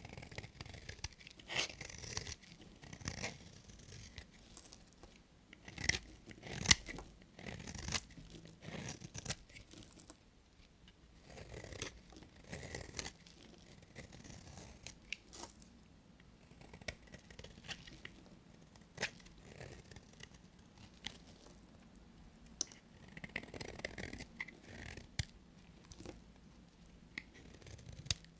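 A knife cutting through bars of soap: an irregular run of soft scrapes and sharp clicks, loudest about six seconds in.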